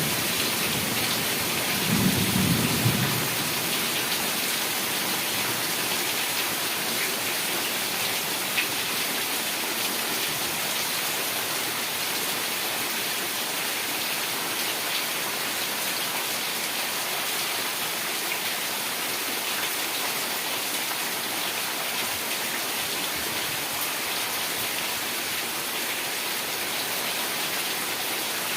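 Heavy rain falling steadily, a dense even hiss of drops on surfaces, with a brief low rumble of thunder about two seconds in.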